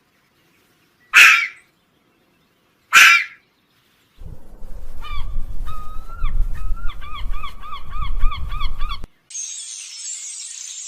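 Animal calls: two loud, harsh honking calls about two seconds apart, then a quick run of repeated pitched calls over a low rumble, and a high hiss near the end.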